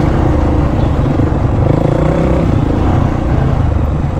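Dirt bike engine running steadily close by, with no revving.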